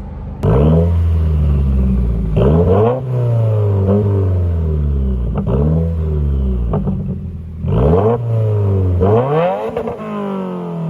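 2019 Subaru WRX's turbocharged flat-four, running through a muffler-delete exhaust, blipped from idle about five times in quick succession. Each rev rises sharply and falls back to idle, and it settles to a steady idle near the end.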